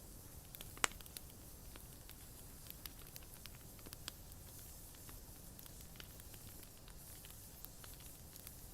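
Bonfire crackling faintly, wood snapping in scattered small pops, with one sharp, louder pop about a second in.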